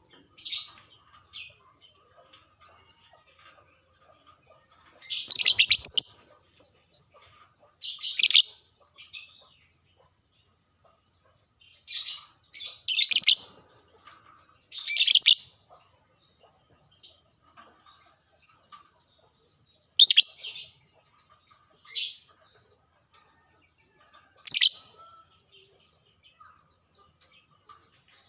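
Lovebird singing: shrill, rapid chirping in bouts of a second or so, about eight loud bouts with softer scattered chirps and short pauses between.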